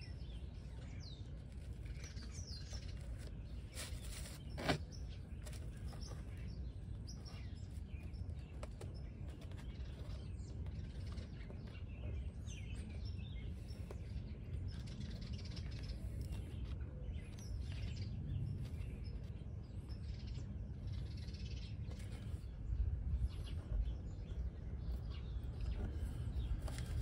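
Faint birds chirping over a steady low background rumble, with a single sharp click about five seconds in.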